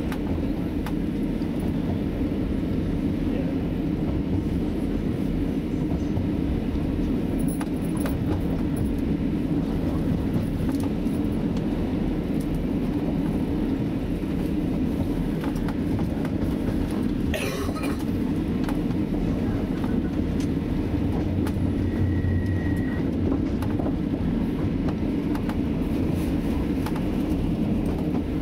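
Class 175 diesel multiple unit running along the track, heard inside the carriage: a steady low rumble with frequent clicks of the wheels over the rails. One sharper clunk comes a little past halfway, and a brief high-pitched squeal a few seconds after it.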